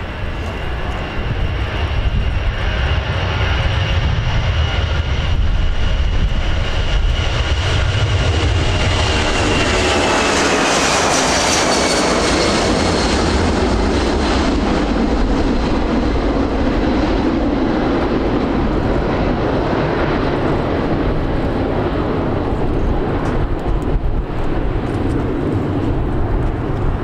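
USAF C-17 Globemaster III's four Pratt & Whitney F117 turbofan engines, running loud as the aircraft passes: a high whine that drops in pitch about ten seconds in, with a swell of jet roar, then a steady low rumble as it moves away.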